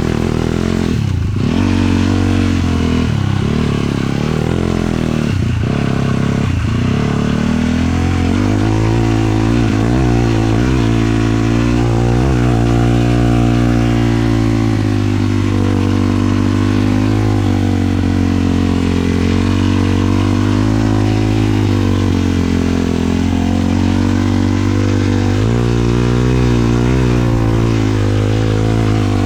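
Single-cylinder four-stroke 450 cc sport quad engine under way. It is throttled up and down several times in the first few seconds, then holds a steadier pitch that rises and falls gently with the throttle.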